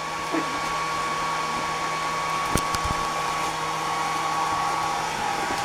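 Hand-held hair dryer running steadily, with two brief knocks about two and a half seconds in.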